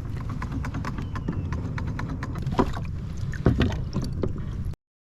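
Old Town PDL kayak pedal drive running with fishing line tangled in its propeller: a low rumble with irregular clicks and knocks, which the paddler calls weird noises. The sound cuts off suddenly near the end.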